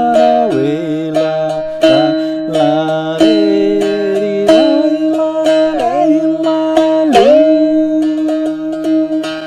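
Handmade string instrument, fitted with a sitar peg and a bone bridge, plucked in a steady rhythm of about two strokes a second on a sustained drone note. Several strokes swoop down in pitch and back up.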